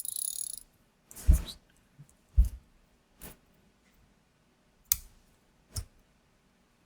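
A short hiss at the start, then a handful of separate knocks and clicks of small tools being handled and set down on a workbench during hand soldering of a surface-mount chip.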